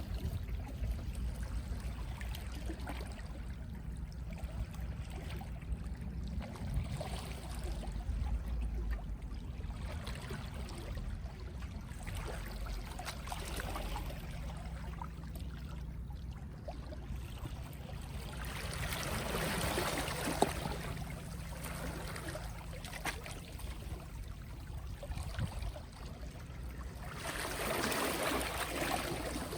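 Gentle sea waves washing onto the shore over a steady low rumble, with two larger waves breaking and washing in, about two-thirds of the way through and again near the end.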